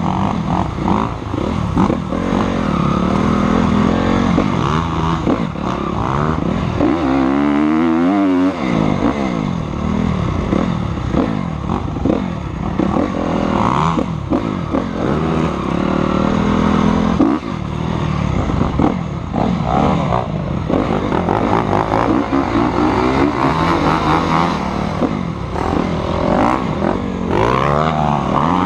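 Motocross dirt bike engine running hard, its pitch rising and falling again and again as the throttle is opened and shut through the gears.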